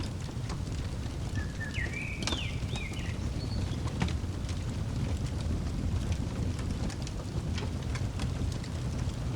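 Wood fire crackling, with scattered sharp pops over a steady low rumble. A bird chirps a short warbling phrase about a second and a half in.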